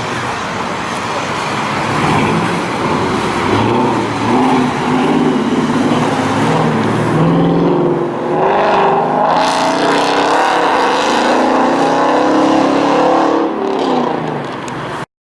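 Car engines revving and accelerating as cars drive out past, the exhaust pitch rising and falling. The sound cuts off suddenly near the end.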